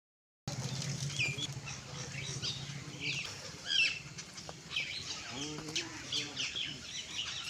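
A flock of small birds chirping and twittering, with many short overlapping calls throughout. A lower, deeper call sounds briefly about five and a half seconds in.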